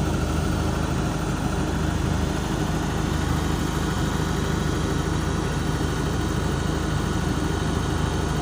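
Heavy vehicle engine running steadily at a low, even pace.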